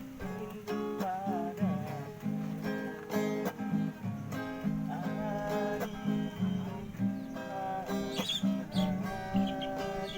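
Acoustic guitar strummed in a steady rhythm, with a melody line over the chords.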